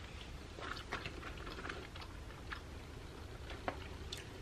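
Faint chewing of leftover French fries, with scattered small mouth clicks and one sharper click a little past halfway through.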